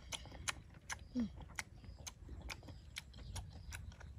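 A person chewing fried mushrooms close to the microphone: soft wet mouth clicks and smacks, about two or three a second, with a short low falling hum about a second in.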